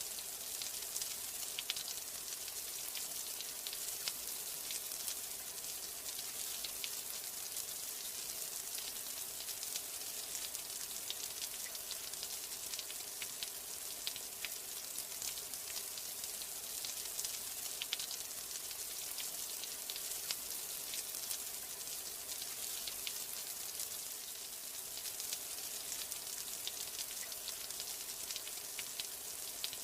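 Steady rain falling: a dense, even hiss with many small, sharp drop ticks.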